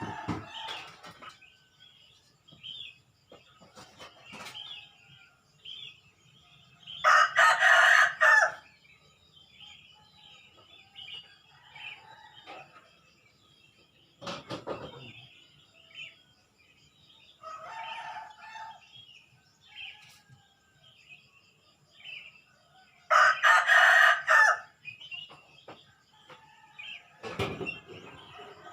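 A rooster crows loudly twice, about seven seconds in and again about twenty-three seconds in, with a fainter crow between them. Small birds chirp steadily in the background throughout.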